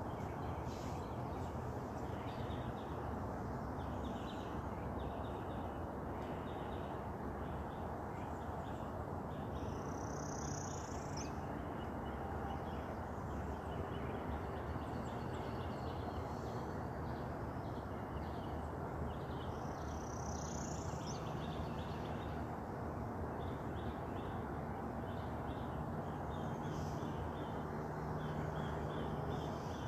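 Wild birds calling: many short chirps and a higher sweeping call repeated about every ten seconds, over a steady background hiss and rumble.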